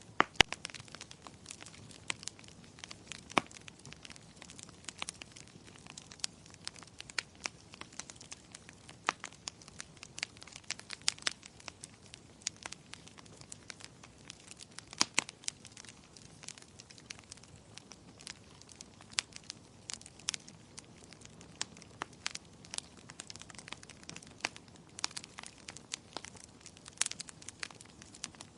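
Wood fire crackling in a fireplace: irregular sharp pops and snaps over a soft low hiss, with a few louder pops near the start, about three seconds in and about halfway through.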